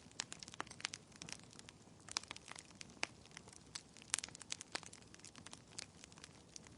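Wood fire crackling in a fireplace: irregular sharp snaps and pops, several a second and uneven in strength, over a low steady hiss.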